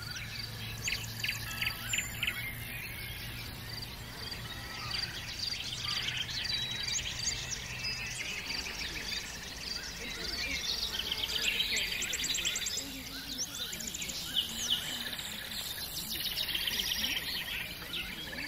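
Several songbirds singing and chirping together: many short chirps, whistled sweeps and fast trills overlapping. A low steady hum sits under them for roughly the first eight seconds.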